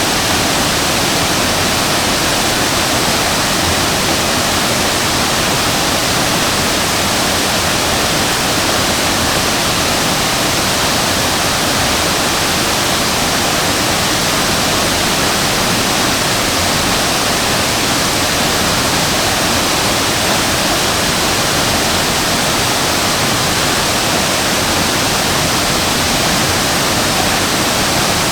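Waterfall: a large fall of water crashing steadily into its pool, a loud, even rush with no breaks or changes.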